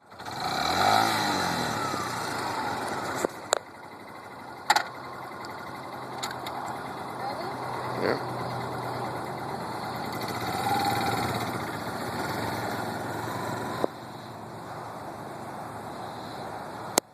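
Motorcycle engine running, its pitch shifting in the first couple of seconds and then holding steady, with several sharp clicks along the way.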